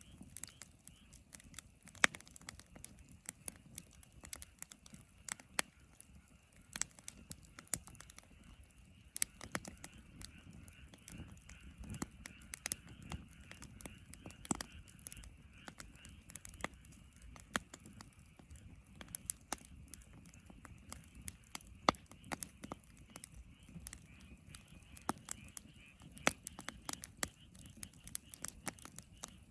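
Wood fire crackling in a fire pit: irregular sharp pops and snaps, some louder than the rest, over a faint steady hiss.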